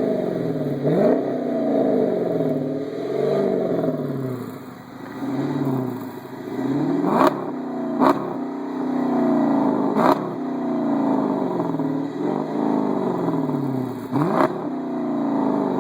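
2009 Dodge Challenger R/T's 5.7-litre Hemi V8, running through a Corsa Xtreme exhaust, being revved. Sharp throttle blips come about a second in, around seven, eight and ten seconds, and near the end, and each time the engine pitch falls back toward idle.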